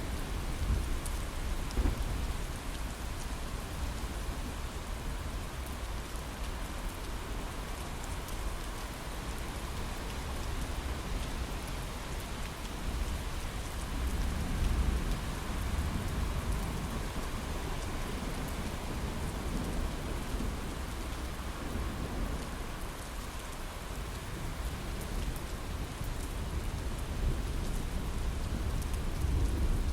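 Heavy rain drumming steadily on a window pane, with a deep rumble of distant thunder underneath that swells about halfway through and again near the end.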